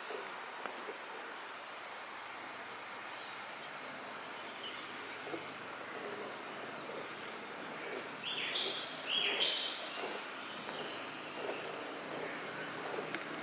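Forest ambience: a steady background hiss with scattered birds calling, a few short high whistles and then two louder rising two-step calls close together about two-thirds of the way through.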